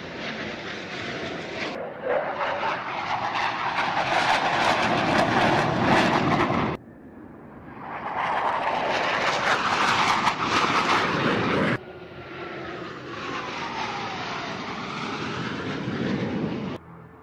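Aircraft engine noise as stunt planes fly, in several short clips that cut off abruptly one after another. The last clip carries a falling whine.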